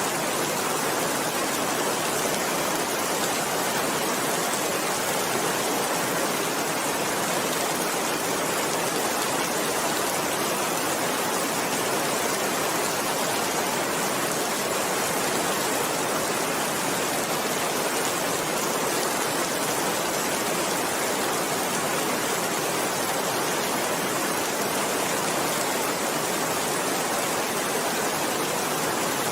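Steady, heavy rain falling, an even wash of sound with no thunder or other events.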